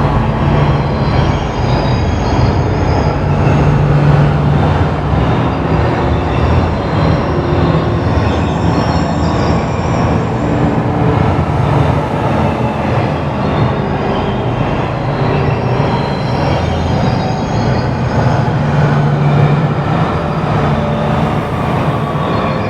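Composed electronic soundscape: a dense, steady rumbling noise, like a train, with short pitched tones scattered through it, high and low.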